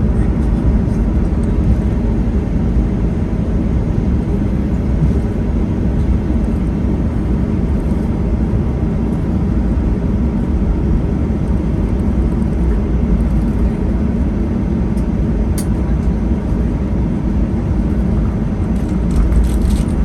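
Cabin noise inside a Boeing 737-800 taxiing after landing: a steady low rumble from its CFM56 turbofan engines and airframe. A few faint clicks come near the end.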